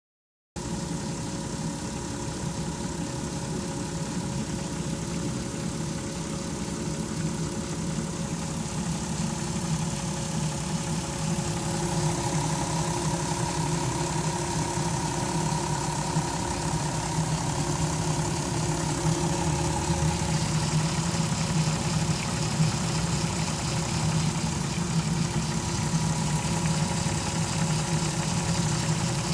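2002 Volkswagen Jetta VR6 engine idling steadily with a fluttering and a slow whine. These are the noises the owner is chasing: they remain after a new crankshaft position sensor cleared the P0321/P0322 codes.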